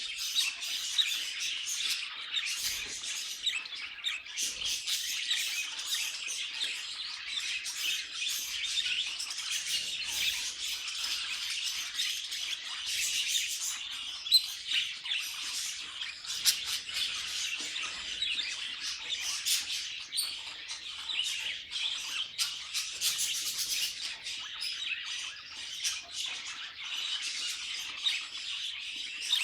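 A group of budgerigars chattering and warbling continuously, with many short, sharp chirps and squawks mixed into the steady chatter.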